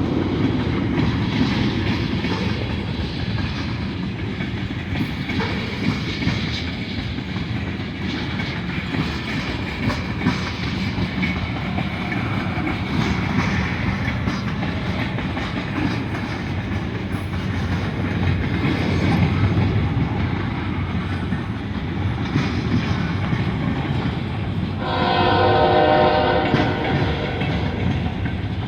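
Freight cars of a long manifest train rolling past, with a steady rumble and wheel clatter over the rail joints. Near the end a locomotive horn sounds once, for under two seconds, from the lead unit's K5HL air horn further up the train.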